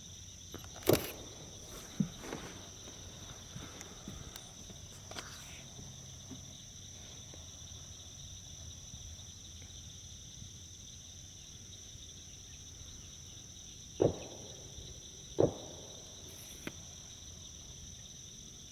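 Steady, high-pitched marsh chorus of calling insects or small frogs, two unbroken shrill tones layered together. A few sharp knocks cut through it: about a second in, at two seconds, and twice near the end.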